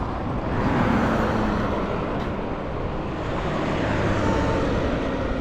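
Street traffic: motor vehicles running and passing, a steady wash of engine and tyre noise that swells briefly about a second in and again near the end.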